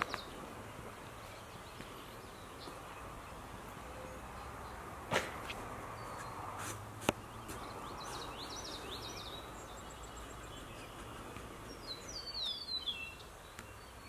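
Outdoor ambience with songbirds singing: short phrases of quick high notes around the start and about nine seconds in, and a run of falling notes near the end. A few sharp clicks sound in the middle.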